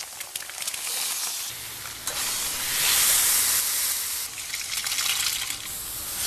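Bacon and shredded hash-brown potatoes sizzling in hot fat on a pan and a flat-top griddle: a steady, crackling sizzle that swells loudest a little before the middle and eases off again.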